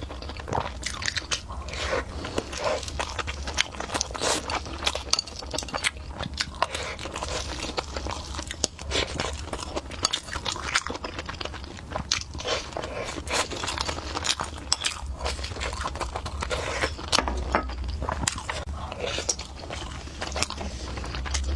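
A person chewing and biting food close to the microphone: a steady stream of short, sharp mouth clicks and smacks with no pauses.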